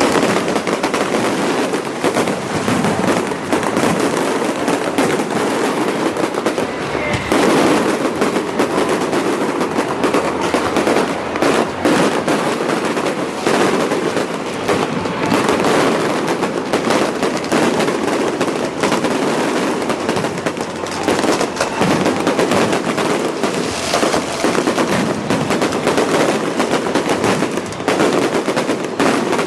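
Beehive fireworks: a rocket rack loosing thousands of bottle rockets and firecrackers at once. It gives a dense, unbroken barrage of bangs and crackles running together at close range.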